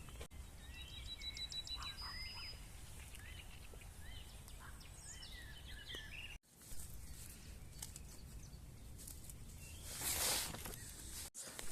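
Small birds chirping and singing in short gliding notes and a quick trill, over a steady low background noise. The birdsong breaks off suddenly about six seconds in, and a short burst of noise follows near the end.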